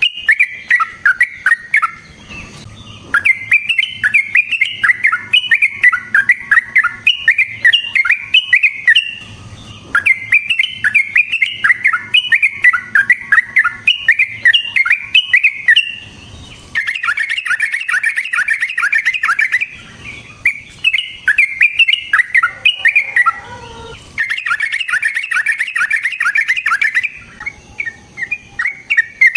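Yellow-vented bulbul (trucukan) singing long, rapid runs of bubbling, chattering notes, each run lasting several seconds with brief pauses between them.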